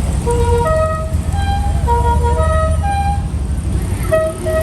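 A musical car horn playing a short tune of held notes stepping up and down in pitch, over a steady low rumble of engine and road noise.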